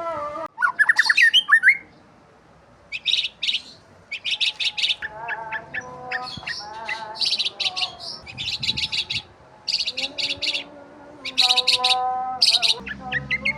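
Birds chirping: short bursts of rapid high chirps repeat throughout, mixed with lower whistled notes that glide up and down.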